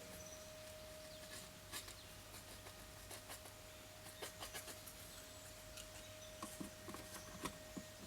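Faint scattered clicks, taps and scratching of hands working small plastic and foam parts into place, over a steady faint tone.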